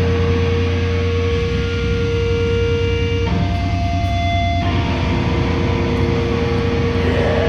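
Loud, droning amplifier feedback and noise from a grindcore band's stage rig. A few held tones sit over a thick hiss and a low hum, and the main tone jumps to a higher pitch for about a second midway before returning.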